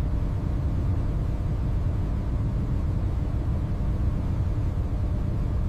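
Steady low rumble of heavy industrial plant, such as a running furnace and its machinery, with no strikes or changes in level.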